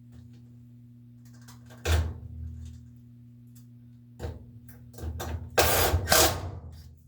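Clanks and rattles of tools and metal parts being handled during washing-machine repair work: a knock about two seconds in, another about four seconds in, then a louder stretch of rattling near the end. A steady low hum runs underneath.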